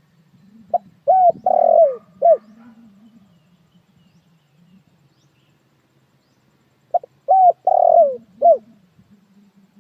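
Spotted dove cooing: two phrases, each a short note, a few arched coos and one longer falling coo, about six seconds apart. It is the call of the lure bird used to draw in wild males and females.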